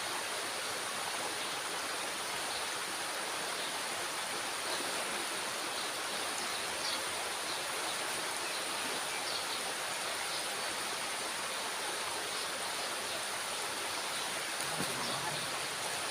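Water rushing steadily through and below a dam's water-release gate, an even rushing sound with no breaks.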